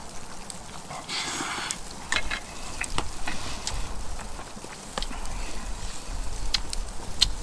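Close-up eating sounds of thick jjajangmyeon noodles: wet slurping and chewing, with scattered light clicks of utensils.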